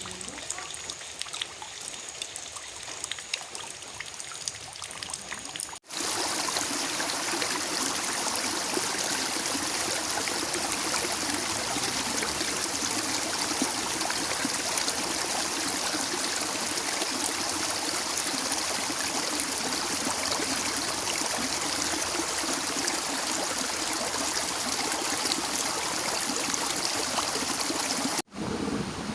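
Water trickling, with many small sharp drips. After a sudden cut about six seconds in, a louder steady rush of running water follows.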